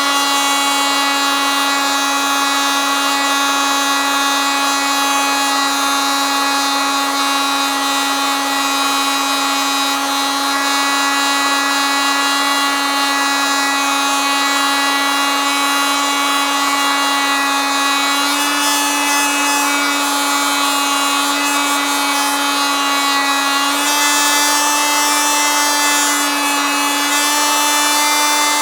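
Oscillating multitool running continuously with a steady buzzing whine. Its pitch steps up slightly twice in the last third.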